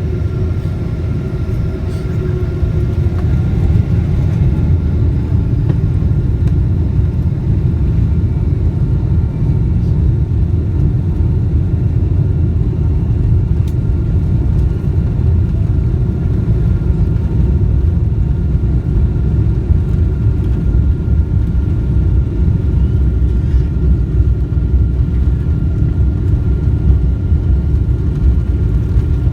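Boeing 777-200's twin turbofan engines at takeoff power: a loud, steady jet rumble with a thin steady whine above it, swelling about four seconds in.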